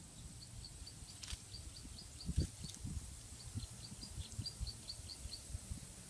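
A small bird singing a quick series of repeated high chirps, about four or five a second, in two runs of about two seconds each, over a few dull low thumps, the loudest about two and a half seconds in.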